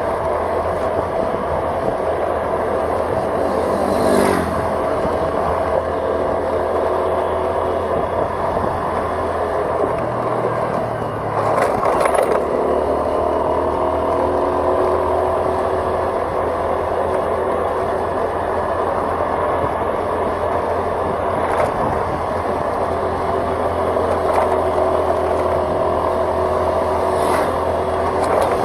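Vehicle engine running steadily on the road, with continuous road noise. About ten seconds in, the engine note drops and then climbs back up as the vehicle picks up speed, and a few short knocks or jolts break through now and then.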